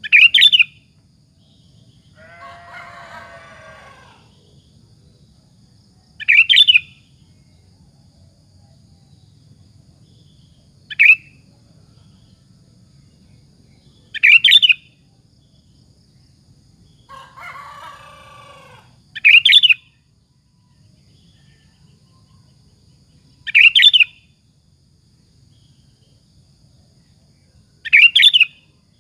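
Sooty-headed bulbul (kutilang) singing short, loud, high whistled phrases, seven of them, about one every four to five seconds. Twice, between phrases, a fainter, lower and longer call sounds in the background.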